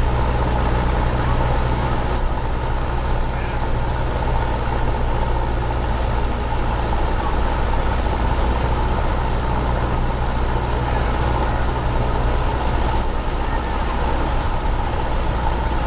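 Cessna 172R's four-cylinder Lycoming engine and propeller running steadily at low taxi power, heard from inside the cabin as a constant drone.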